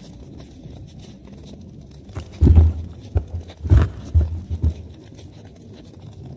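Wood fire burning in a fireplace: a steady low rumble, with a cluster of loud low thuds and a few sharp pops from about two and a half to five seconds in.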